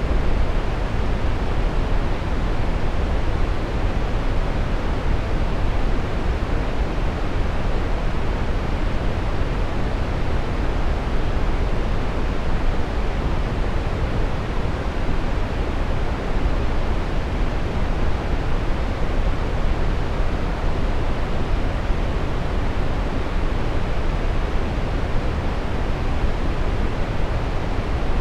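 Steady brown noise, a deep even hiss with its weight in the low end, unchanging throughout.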